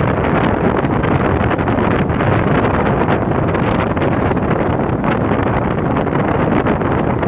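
Steady wind buffeting the microphone over the running noise of a moving train.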